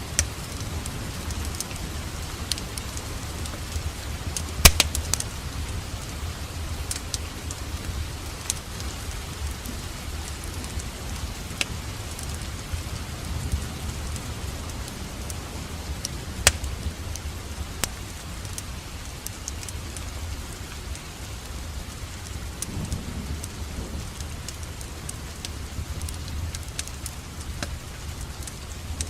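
Steady rain mixed with a wood fire crackling: sharp pops scattered throughout, the loudest about five seconds in, over a low rumble.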